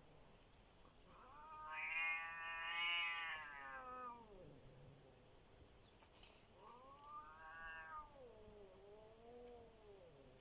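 Cat yowling in a standoff with a strange cat: two long, drawn-out yowls, each rising and then falling in pitch, the first louder than the second, a threat call before a fight.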